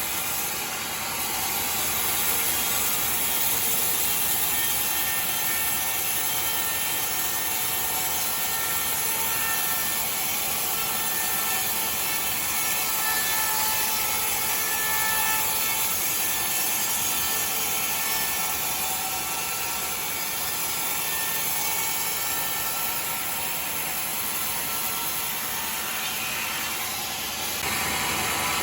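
Sawmill saw running steadily through timber, a continuous dense noise with faint held whining tones.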